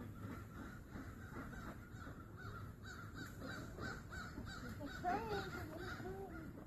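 Guinea fowl calling in a rapid run of short, repeated harsh calls, with lower, bending poultry calls joining about five seconds in.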